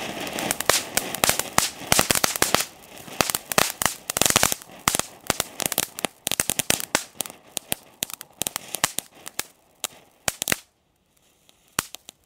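Firework crackling effect from a small Weco fountain: a dense run of rapid, sharp pops and crackles that thins out about ten seconds in and stops, with a couple of last pops near the end.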